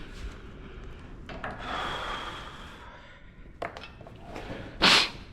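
Glass cleaner being sprayed, a hissing spray lasting about a second and a half, followed near the end by one short, loud, sharp burst.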